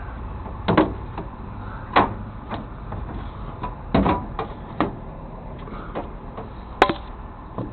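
About ten knocks and clunks at irregular intervals, the sharpest near the end, over a low steady rumble.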